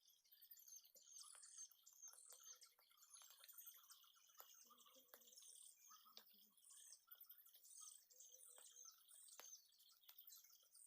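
Faint chorus of forest birds chirping: many short, high calls overlapping continuously, with a few sharp clicks scattered among them.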